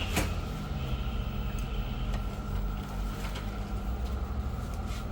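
Motor vehicle running with a low, steady rumble, with a few faint clicks over it.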